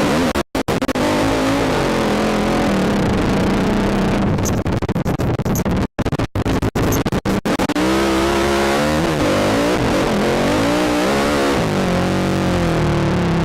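ATV engine revving up and down repeatedly under a rider's throttle, with a constant rushing noise over it. The sound cuts out briefly about half a second in and again several times around six to seven seconds in.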